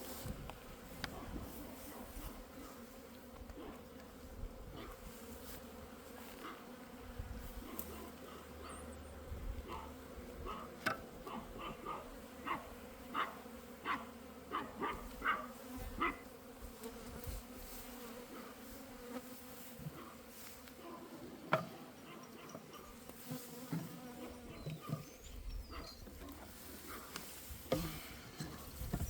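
Honeybees buzzing in a steady hum. Through the middle comes a run of light clicks and knocks, with a few more later.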